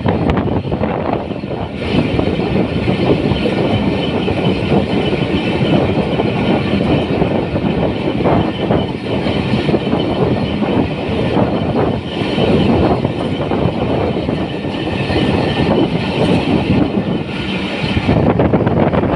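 Musa Pak Express passenger train running along the track, with a loud, steady noise of wheels and coaches on the rails.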